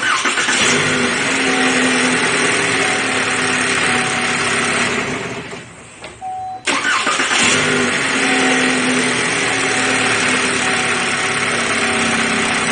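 2013 Chevy Malibu's 2.5-litre four-cylinder engine starting hot and idling; about five seconds in it is shut off, then restarted about a second later and idles again. It restarts promptly now that a bad engine ground, the cause of its hot no-start, has been fixed.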